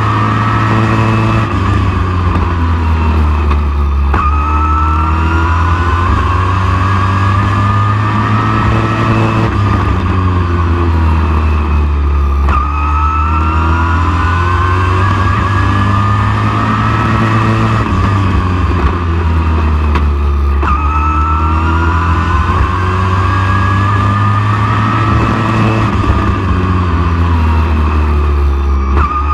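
Race truck engine at full racing speed, heard close up. Its pitch climbs steadily and then drops sharply as the driver lifts, in a cycle that repeats about every eight seconds, lap after lap.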